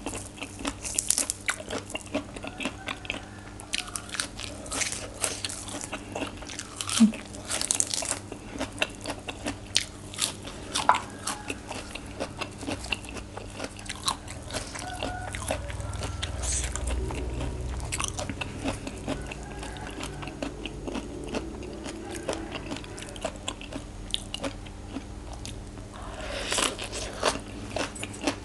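Close-miked chewing of raw shrimp som tam with crisp fresh vegetables: a long run of crunches in quick succession, irregular and closely spaced.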